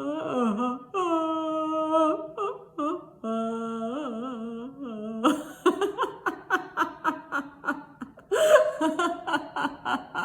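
A woman's deliberate laughter-yoga laughing, at first drawn out in slow motion as long held, wavering vowels, then breaking into quick, rhythmic bursts of laughter from about five seconds in.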